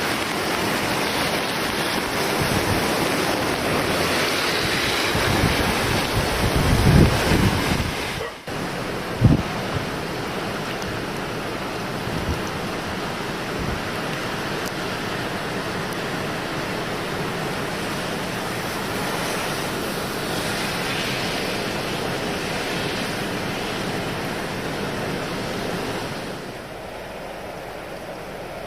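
Typhoon wind and rushing water, with wind buffeting the microphone in gusts for the first eight seconds. A sudden break comes about eight seconds in, followed by a steady, even rush of water.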